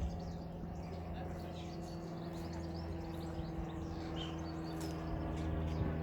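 Small birds chirping and twittering over a steady low hum.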